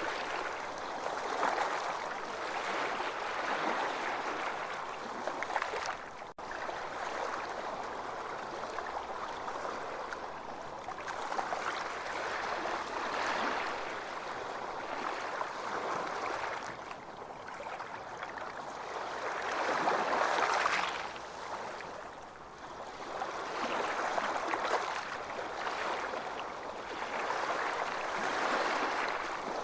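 Ocean surf breaking and washing up a beach, the rush of water swelling and fading every few seconds. There is a very short gap in the sound about six seconds in.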